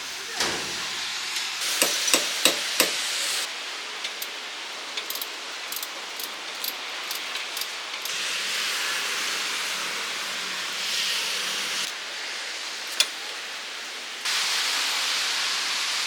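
A quick series of sharp metallic knocks, as of tools on a car's air-conditioning parts, then two long stretches of steady hissing of escaping gas or air, the second one louder.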